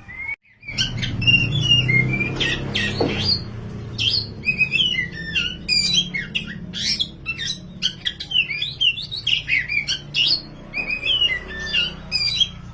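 Oriental magpie-robin (black 'kacer wulung' form) singing hard: a fast, unbroken stream of varied whistles, chirps and trills, after a brief gap just after the start. A faint low hum runs beneath.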